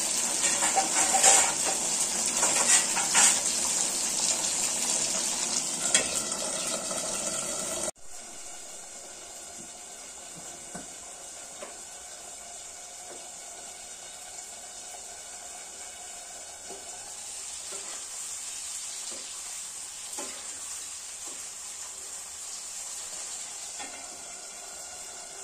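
Green chilies and tomatoes frying in hot oil in a wok, a dense sizzle with scattered crackling pops. About eight seconds in it cuts to a much quieter steady hiss with occasional light knocks of a spoon stirring in a steel pot.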